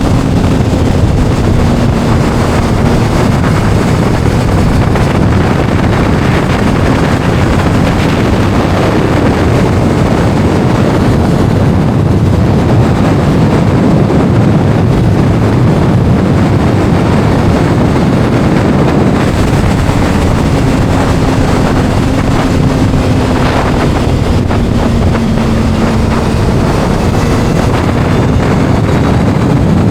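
Heavy wind rushing over the microphone of a moving motorcycle. Beneath it a Kawasaki inline-four sportbike engine runs faintly, its pitch rising and falling with the throttle at times.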